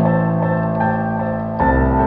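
Slow solo piano music, held chords with a new chord and low bass note struck about 1.6 s in, over a few soft crackles of a wood fire.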